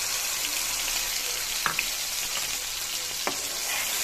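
Onion and garlic paste frying in hot oil: a steady sizzle, with two light taps about a second and a half apart.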